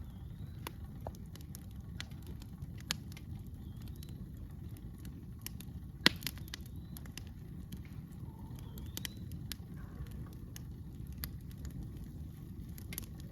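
Wood campfire crackling, with irregular sharp pops and one loud pop about six seconds in, over a steady low rumble.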